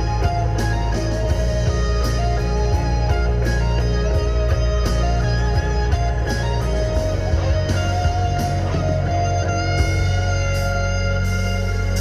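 Live rock band playing an instrumental passage with no vocals: guitars over bass and drums, with a steady drum beat.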